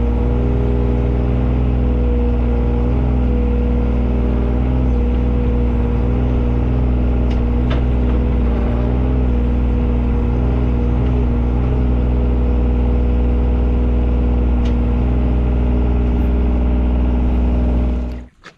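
Engine of the digging machine running steadily at a constant speed, cutting off abruptly near the end.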